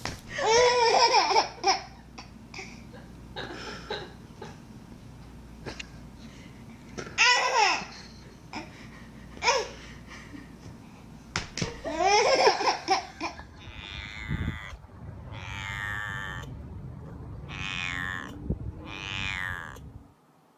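Repeated bursts of laughter, four loud outbursts in the first two-thirds, followed by softer gliding vocal sounds near the end.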